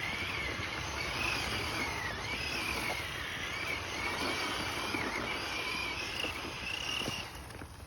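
Small electric motor of a toy car whining as it drives, its pitch wavering and dipping with the load, then cutting out near the end.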